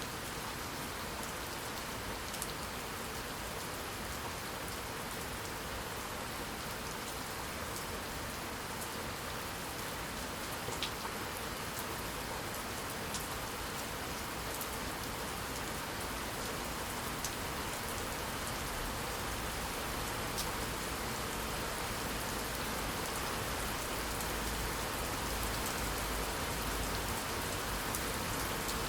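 Steady rain falling on a surface, a constant hiss with scattered sharp drop ticks.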